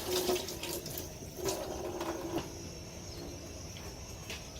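Spoon stirring and scraping wet batter in a bowl: irregular wet sloshing with small clicks of the spoon against the bowl.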